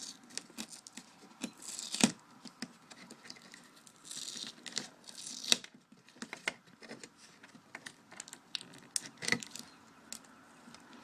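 Cable connectors being pulled off an LCD TV's main board: scattered small plastic clicks, snaps and scraping, with a few sharper clicks about two, five and a half and nine seconds in.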